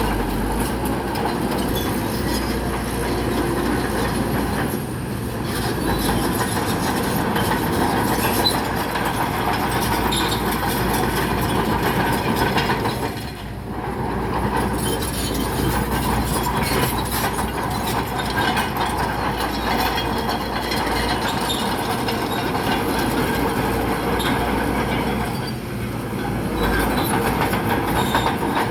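Crawler bulldozer's diesel engine running under load, with a constant clanking of its steel tracks as it pushes rock. The sound dips briefly three times.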